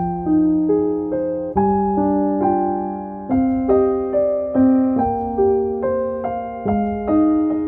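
Background piano music: a slow, gentle melody of single notes and chords, each struck and left to ring.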